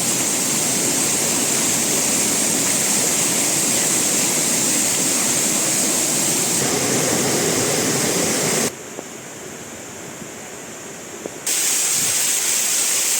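Waterfall, steady rushing water. It drops much quieter for about three seconds past the middle, then comes back to full strength.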